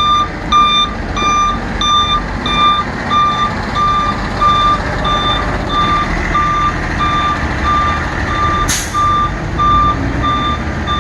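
Truck warning alarm beeping about twice a second, one steady high tone, over the low running of the Ford F-750 utility truck's diesel engine. A short hiss of air comes near the end.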